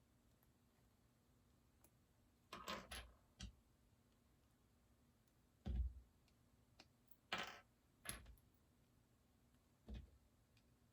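Faint, scattered clicks and rattles of small plastic Lego pieces being handled and pressed together, about half a dozen separate sounds.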